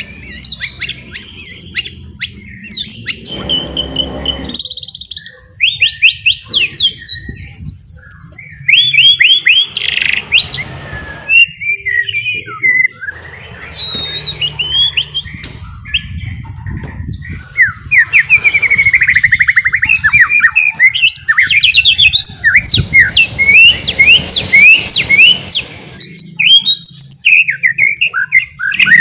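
White-rumped shama (murai batu) singing loudly: a varied run of whistled phrases and fast trills of quickly repeated sweeping notes, the rapid chattering 'ngeriwik' style, with a brief pause about five seconds in.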